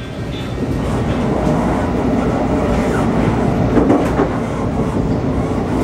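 Brightline passenger train running, heard from inside the coach: a steady rumble of wheels on the rails.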